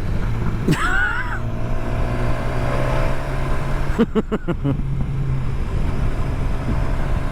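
Motorcycle engine running at a steady pitch under the rush of riding wind. About a second in there is a short gliding tone, and around four seconds in a quick run of several sharp clicks or knocks.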